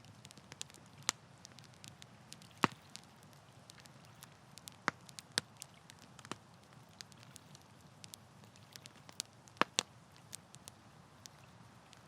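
Campfire burning by a lake: irregular sharp crackles and pops of burning wood over a soft steady hiss, with a few louder pops, one about two and a half seconds in and one near the end.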